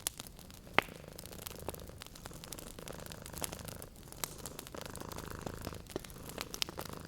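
A cat purring steadily, the purr swelling and easing with each breath, over a wood fire crackling with scattered sharp pops. The loudest pop comes about a second in.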